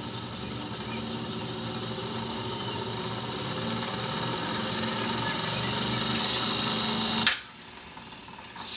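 1940s wire recorder's motor and spool mechanism running with a steady hum, growing slightly louder, then switched off with a sharp click about seven seconds in.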